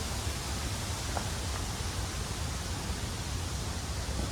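Steady rushing noise with a deep low rumble underneath, unchanging throughout.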